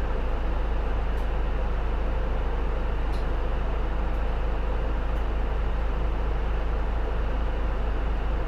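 Inside the cabin of a J-Bus PKG-LV234L2 (Isuzu Erga) large city bus under way: steady engine and road drone with a heavy low rumble and a faint steady hum, the heater running. A few faint ticks rise above it.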